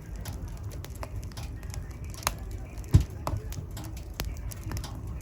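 Wood fire burning in a fireplace: a steady low rumble of the flames with scattered crackles and a loud pop about three seconds in.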